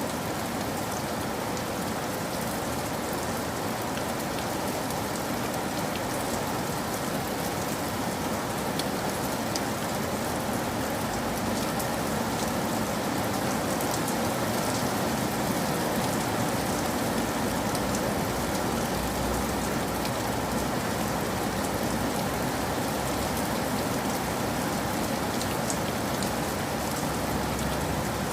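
Steady rain falling: a dense, even hiss with scattered sharper drop ticks. Its low end swells slightly in the middle.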